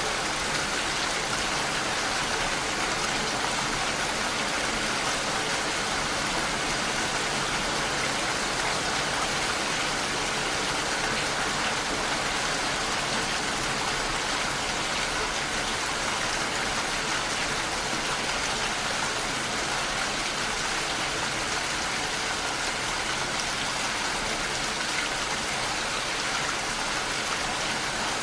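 Steady rain falling against a window pane: an even, unbroken hiss of many small drops.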